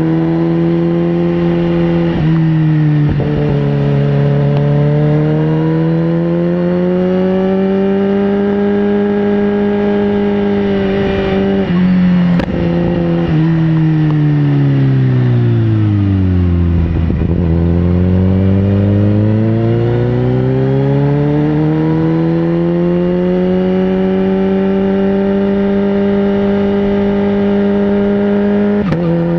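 Sportbike engine under way. Its pitch climbs slowly through the gears with abrupt drops at the shifts, then falls steadily as the bike slows, rises again under acceleration and holds steady before another shift near the end.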